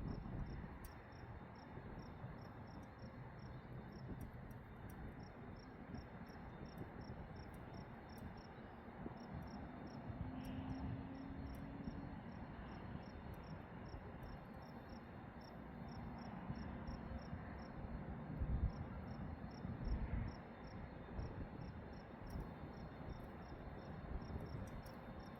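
Crickets chirping in a fast, even pulse of about four chirps a second, pausing briefly now and then, over a low steady rumble that swells twice in quick succession late on.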